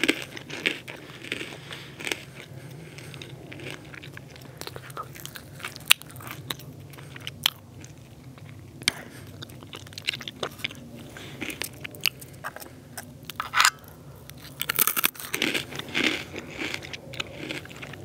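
Pretzels being bitten and chewed close to the microphone: irregular sharp crunches, with a denser run of crunching near the end.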